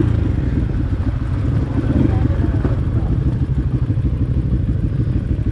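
Dirt bike engine running steadily as the bike is ridden along a trail.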